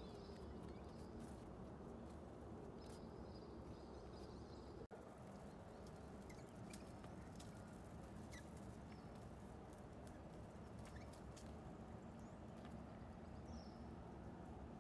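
Quiet outdoor ambience: a steady low background hum with a few faint, high chirps and scattered ticks. The sound cuts out for an instant about five seconds in.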